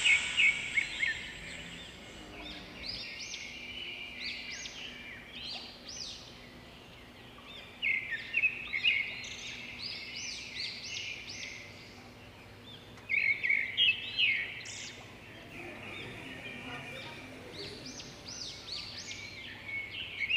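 Small birds chirping: clusters of quick high chirps and short rising calls, louder in bursts every few seconds with quieter calling between.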